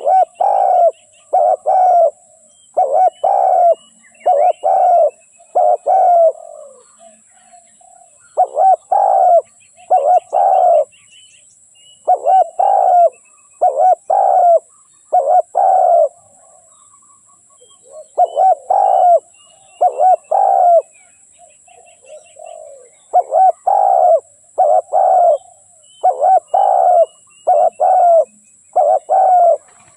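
Spotted dove cooing: loud, repeated phrases of about three or four coos each, separated by short pauses.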